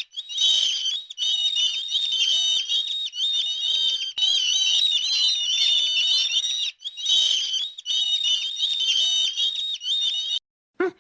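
Many small birds chirping and peeping together in a dense, high-pitched chorus of quick overlapping calls, cutting off abruptly near the end.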